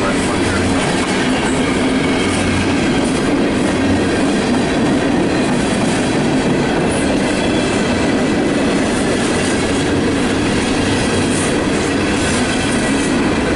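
CSX freight train's cars rolling past, with a steady clatter of steel wheels on the rail.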